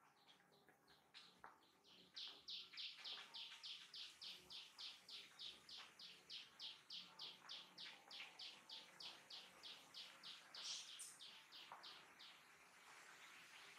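A bird calling: a long run of short, high, evenly spaced notes, about four a second, that grows clearer about two seconds in and stops shortly before the end.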